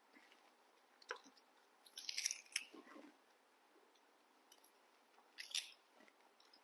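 Crisp bites and chewing of June apple (ambarella) fruit: a few short crunches, about a second in, a cluster around two seconds, and another near five and a half seconds.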